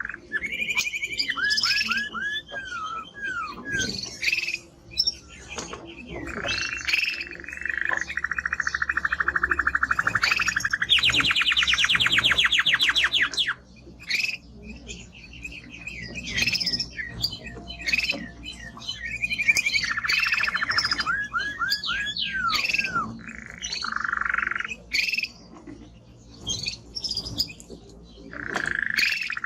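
Male timbrado canary singing a long song made of phrases of fast trills and rolling notes, with runs of short downward-sliding notes between them. The loudest part is a long, very rapid trill about eleven seconds in, lasting a couple of seconds.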